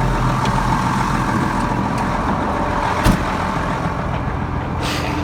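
Tractor engine running steadily, with a single sharp tap about three seconds in.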